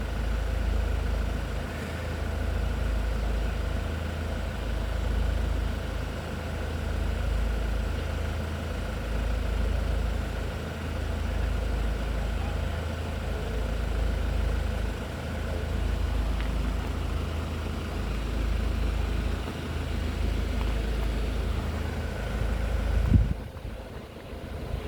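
Steady low rumble of idling vehicle engines, with a faint steady high tone above it. The rumble drops away suddenly near the end.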